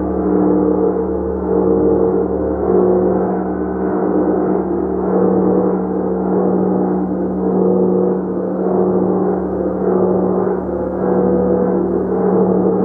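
Gong played continuously, a sustained ringing drone of many overlapping tones with a strong low hum. It swells and eases in loudness about once a second as the playing keeps it sounding.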